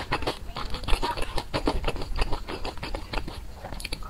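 Chewing and mouth sounds of someone eating chili-oil-glazed dumplings, a quick, continuous run of small clicks and smacks.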